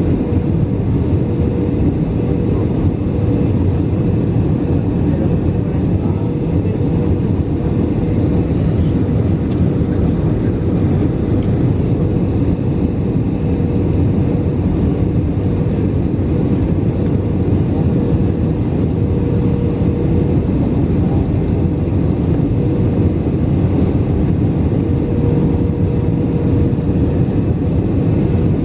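Steady cabin noise inside an Airbus A319 airliner: engine and airflow drone with a faint constant hum, unchanging throughout.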